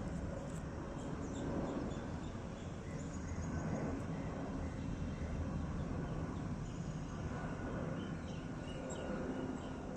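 Steady low rumble of an IndiGo Airbus A320's jet engines as the airliner arrives, with faint bird chirps scattered over it.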